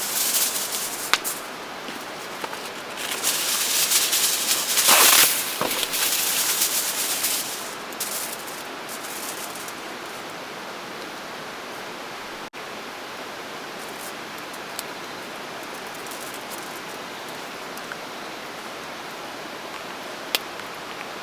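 Rustling and crinkling handling sounds for the first several seconds, over a steady rushing hiss of water, with a few light clicks later on.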